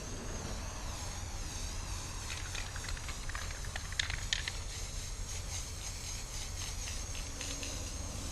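Aerosol can of Rust-Oleum spray paint hissing as it is sprayed onto car windows, with scattered ticks and clicks in the middle and a steady low rumble underneath.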